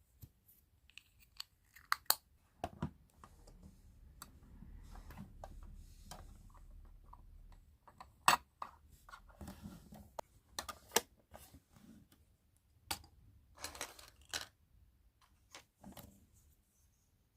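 Toy packaging being opened and handled: tearing and rustling, with scattered sharp clicks and taps of small pieces being handled.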